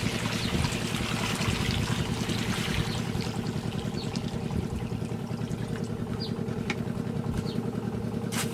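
A small engine running steadily, with a hiss of noise over the first few seconds and a single sharp click near the end.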